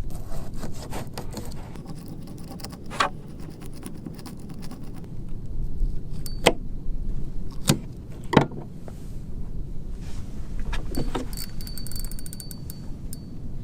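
A few sharp knocks and clatter over a steady low rumble, with a fast fine ticking and a thin high tone near the end.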